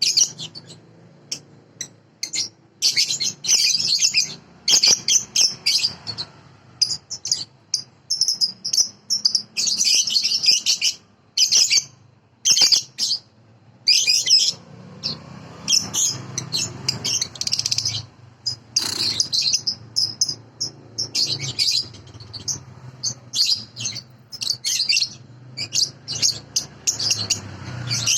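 Young lovebird singing in rapid bursts of high chirps and chattering trills, one burst after another with brief pauses between.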